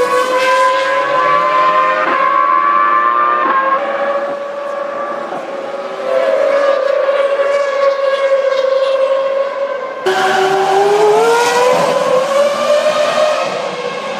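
Formula One cars' 3.0-litre V10 engines running at very high revs. After an abrupt change about ten seconds in, the engine note climbs steadily as a car accelerates.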